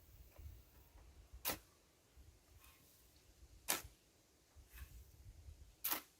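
Three sharp clicks or knocks about two seconds apart, with a faint low rumble and a few softer ticks between them.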